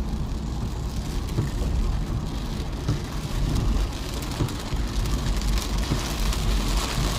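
Rain pattering on a moving car over the steady low rumble of the engine and tyres.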